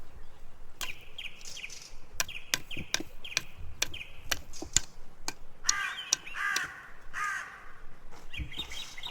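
Birds calling: a run of short, quick chirping notes, then three harsh caws about six to seven seconds in and more short calls near the end, over many sharp clicks and taps.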